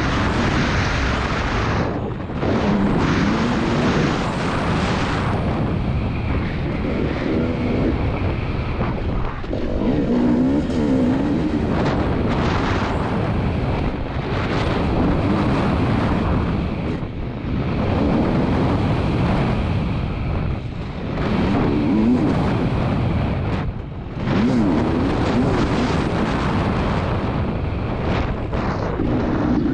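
2022 KTM 300 TPI two-stroke motocross engine being ridden hard, its revs climbing and falling over and over as the rider opens and shuts the throttle, with a few short drops in loudness when the throttle is closed. Wind noise rushes over the camera microphone throughout.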